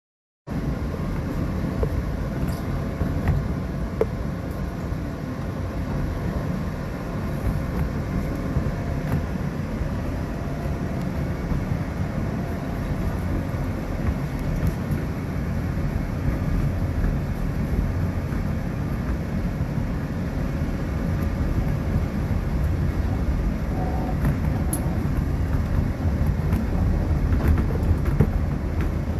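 New York City subway N train running along its elevated track, a steady low rumble of wheels on rails heard from inside a moving car.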